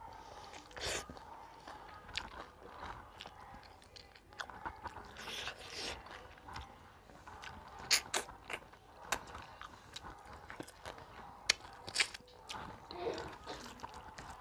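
A person chewing mouthfuls of rice and mustard greens eaten by hand, with wet mouth clicks and smacks scattered throughout, the sharpest about eight and twelve seconds in.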